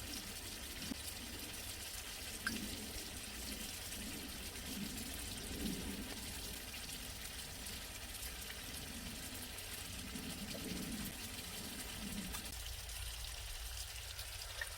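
Beef intestines grilling with a steady sizzle, with soft irregular low sounds that stop about two seconds before the end.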